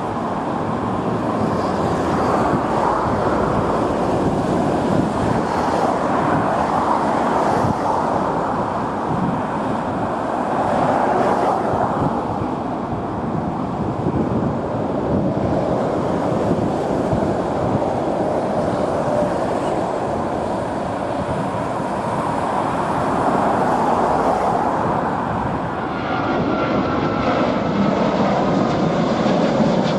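Jet airliner's engines at takeoff thrust, a loud, steady rush of noise that swells and eases slowly.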